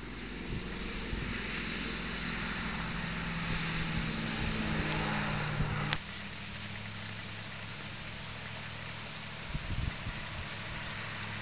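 Triumph Stag's V8 engine running steadily as the car drives along at a distance, its pitch rising a little before the sound changes abruptly about six seconds in; the engine is then heard at a lower, steady note as the car approaches.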